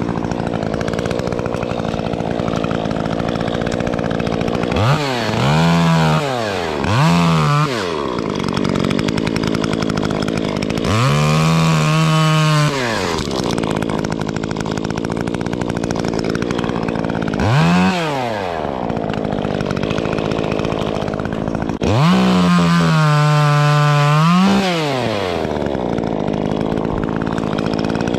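Stihl MS 150 T top-handle chainsaw, its muffler opened up, idling and being revved: two quick blips, then longer stretches held at full throttle, dropping back to idle in between.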